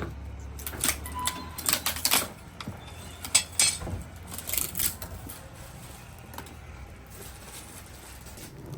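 A run of irregular sharp clicks and knocks over about the first five seconds, then quieter.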